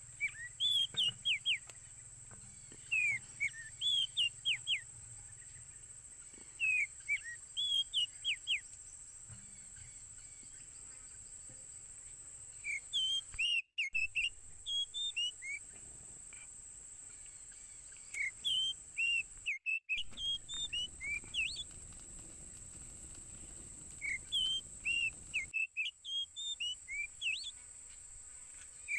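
Birds chirping: clusters of short, quick whistled notes repeating every second or two, over a steady thin high-pitched hum. The sound drops out completely for a moment three times.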